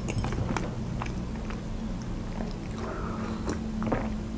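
Close-miked mouth sounds of a woman chewing and swallowing, with small wet clicks. About three seconds in she sips from a ceramic mug.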